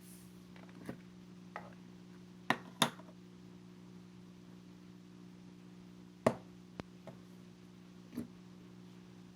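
Slime being played with by hand: scattered soft clicks and pops, about eight in all, the loudest around two and a half, three and six seconds in, over a steady low hum.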